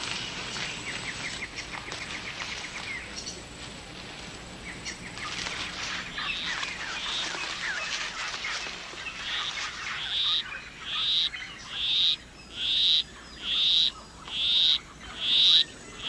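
Rainforest chirps and trills, then from about ten seconds in a male poison arrow frog's monotonous courtship song: a high call repeated evenly, about once a second.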